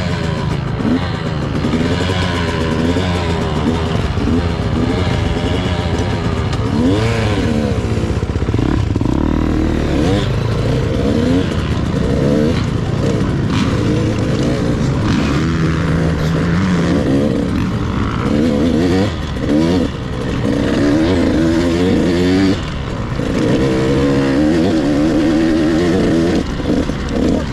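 Husqvarna TC 85 two-stroke dirt bike engine under way, heard from the rider's helmet. Its pitch rises and falls again and again as the throttle is worked and the gears go up and down, with a couple of short lulls off the throttle past the middle.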